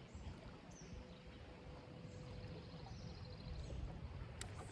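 Low wind rumble on the microphone, with faint bird chirps and a short high trill in the background, and a sharp click near the end.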